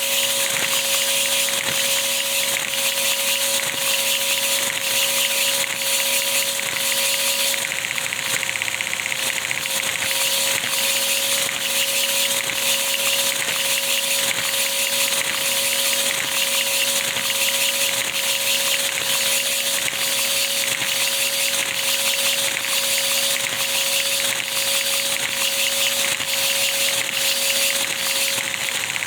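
Three-cylinder Lego vacuum engine with cam-driven valves running on a vacuum cleaner's suction: the vacuum's steady whine and hiss, with the engine's evenly spaced mechanical clicks.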